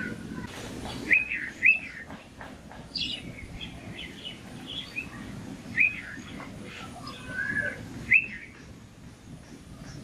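Birds chirping and calling: many short chirps, with louder short arched call notes about a second in, just before two seconds, near six seconds and near eight seconds.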